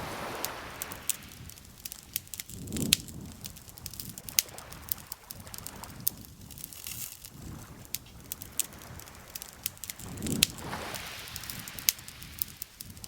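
Campfire crackling, with many sharp, irregular pops and snaps from the burning wood. Soft swelling washes of noise come and go every few seconds underneath, the loudest about three seconds in and again about ten seconds in.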